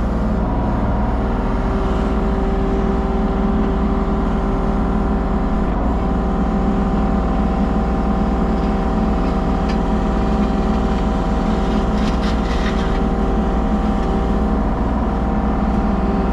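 Mini excavator's diesel engine running at a steady speed while the machine fine-grades soil.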